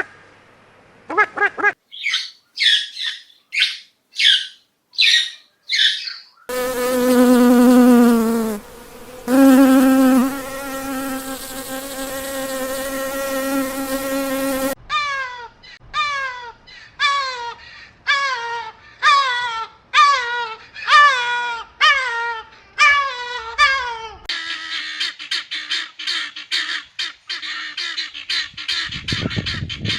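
A run of different animal sounds: a few quick high chirps, then a steady pitched buzz for about eight seconds with one short break, then a string of repeated calls, each falling in pitch, about one a second, and finally another steady tone with a high hiss.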